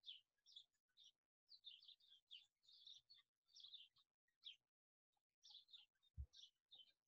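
Faint birds chirping: short high calls repeating every half second or so, with a pause in the middle. A soft low thump sounds about six seconds in.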